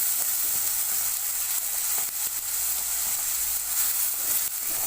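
Onion-tomato masala with spice powders frying in oil in a kadai: a steady sizzle, with a few faint clicks.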